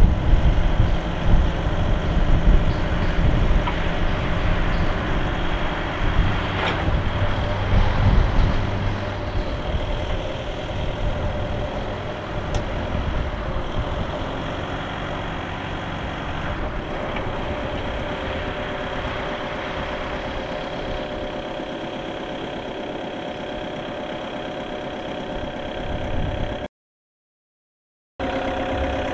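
Volkswagen diesel engine of a Linde H40D forklift running: louder and rougher for the first several seconds, then settling to a steady, quieter run. The sound cuts out completely for about a second and a half near the end, then returns.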